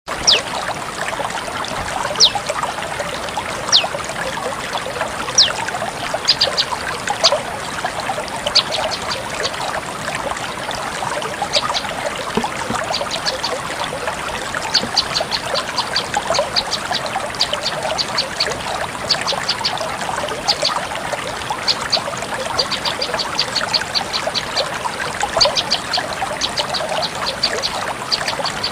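A prenjak lumut calling: sharp, high, down-slurred notes a second or two apart, turning from about halfway through into quick runs of short high notes, several a second. Underneath runs a steady trickling-water noise.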